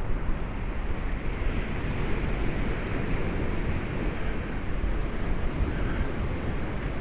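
Steady wind rumbling on the microphone over the wash of sea surf, with no distinct events.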